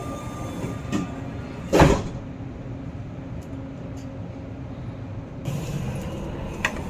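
Doha Metro train's sliding doors closing with one loud sudden whoosh about two seconds in, over the steady hum of the carriage; from about five and a half seconds the running noise rises as the train pulls away from the station.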